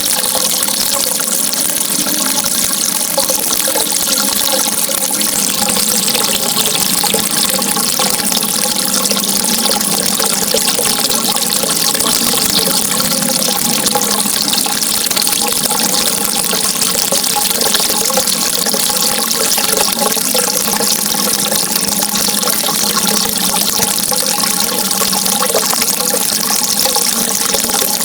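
Water rushing steadily with a constant hiss and light burbling, typical of a stream or small waterfall.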